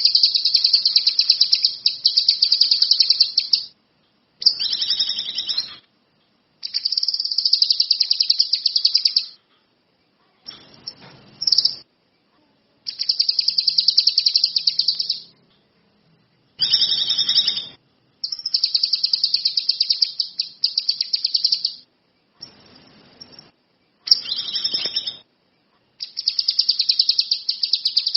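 A caged kinoi songbird singing: a string of high, rapid trills, each made of fast repeated notes and lasting one to four seconds, with short pauses between them.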